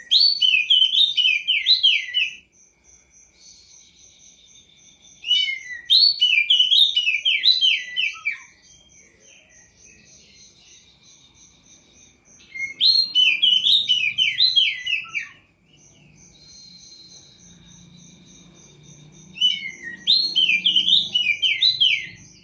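Caged poci songbird singing four phrases of fast, rapidly rising and falling whistled notes, each phrase about two to three seconds long with quieter gaps between them. A faint, steady, high-pitched pulsing goes on in the background throughout.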